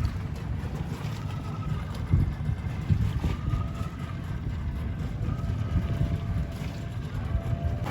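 Wind buffeting the microphone over a steady low rumble, with a faint rising-and-falling tone repeating about every two seconds.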